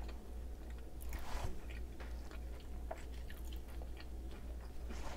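A crunchy bite into a crisp whole-wheat tart crust about a second in, followed by chewing with small crunches and clicks, and another crunch near the end.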